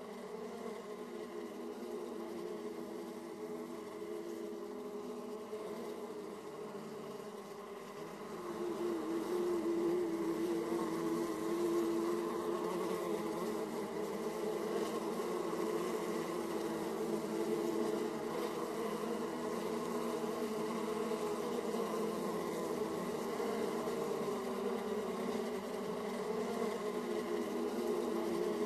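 Many honey bees flying and buzzing at a hive entrance, a dense steady hum that grows louder about eight seconds in.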